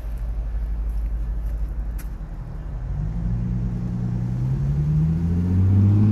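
A motor vehicle's engine over a steady low rumble. About halfway through it rises in pitch and grows louder as it accelerates, loudest near the end.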